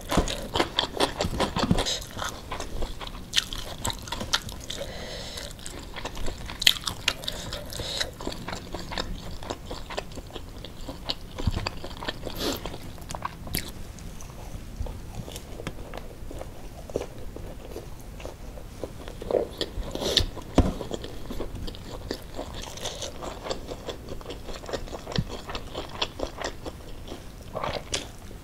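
Close-miked chewing and crunching of mouthfuls of rice with sambal: wet chewing broken by many irregular small crunches and clicks, with a few sharper crunches along the way.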